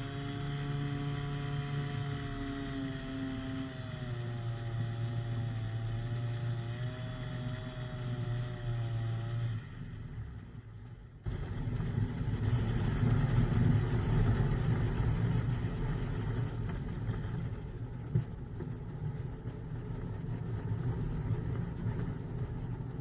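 Powered hang glider's engine running with a slowly wavering pitch, then dropping away about ten seconds in. The engine is failing and down on power. After an abrupt change a couple of seconds later, a steady rumbling noise with no engine tone follows.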